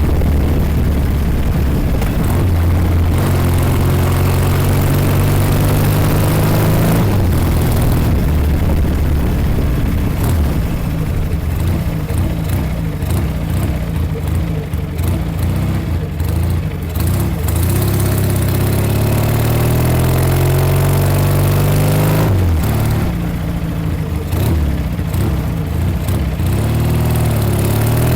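1956 Norton 500 Dominator's air-cooled parallel-twin engine running on the road. Its pitch climbs and drops several times, with an uneven, choppier stretch near the middle.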